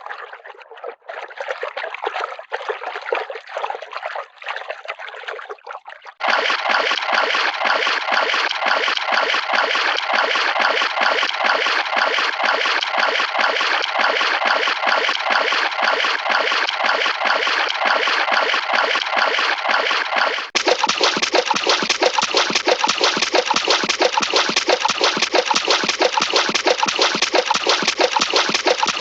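Cartoon water sound effects: running, trickling and splashing water as a dense noise, changing abruptly to a fuller take about six seconds in and to another, deeper one near twenty seconds in.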